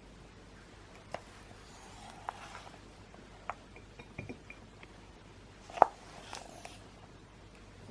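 Wood fire crackling in a homemade fire dome, with scattered sharp pops and one loud pop about three-quarters of the way through.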